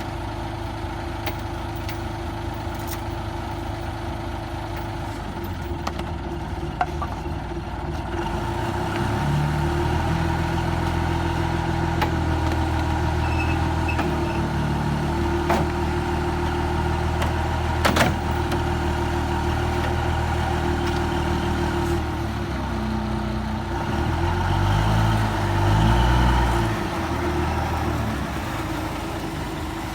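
Kubota ZT155 two-wheel tractor's single-cylinder diesel engine running steadily. It gets louder and deeper about nine seconds in and changes pitch several times near the end, with a sharp knock partway through.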